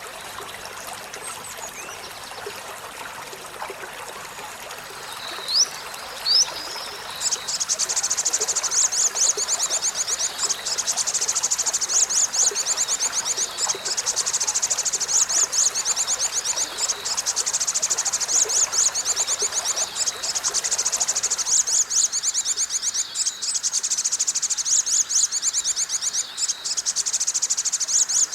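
Olive-backed sunbird singing: two short rising high notes, then a long, very fast, high-pitched trill about 7 seconds in, with a few brief breaks, over a faint stream-like murmur.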